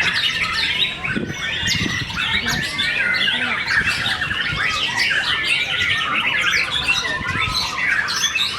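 Many caged contest songbirds singing at once, a dense, unbroken chorus of rapid chirps, trills and whistles.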